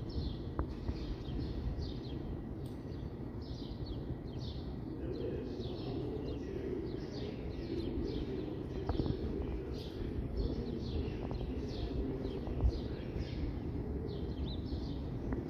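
Small birds chirping over and over, two or three chirps a second, above a steady low rumble from a subway train approaching along the elevated track.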